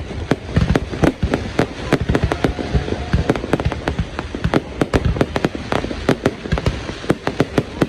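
Aerial fireworks going off in rapid succession: a continuous run of sharp bangs and pops, several a second, over a low rumbling boom.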